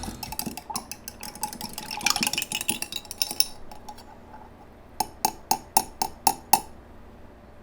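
Kitchen clatter of dishes and cutlery: clinking and stirring sounds, then six sharp ringing clinks about a third of a second apart, like a utensil tapping a glass or dish while a punch is being mixed.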